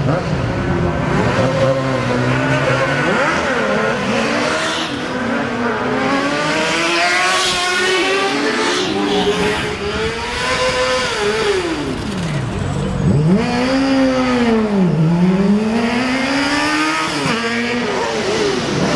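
Several sport motorcycle engines revving and accelerating past, their pitch climbing in steps through gear changes and falling away as each one goes by.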